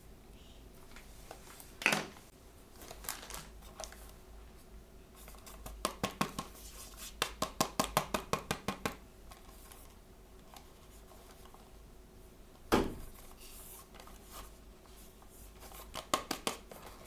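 Blind-bag toy packaging being opened by hand. There is a sharp crack about two seconds in, then a run of quick snips or clicks at about four a second in the middle, another sharp crack later, and a few more clicks near the end.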